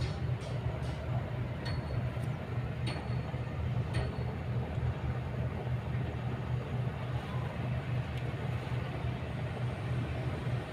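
Kobelco excavator's diesel engine running steadily, with a few sharp clicks in the first half.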